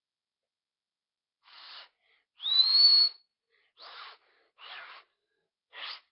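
A person blowing five short breathy puffs of air through the mouth; the second, about two and a half seconds in and the loudest, carries a whistle that rises and then holds a high note.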